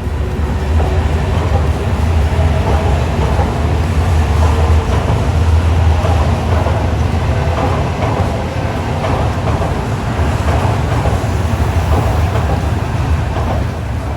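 Shinkansen train moving along the platform, a loud, steady rumble that eases off near the end.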